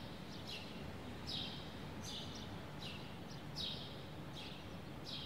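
Faint outdoor background ambience with a small bird chirping over it: short falling chirps about once a second, above a low steady hiss of background noise.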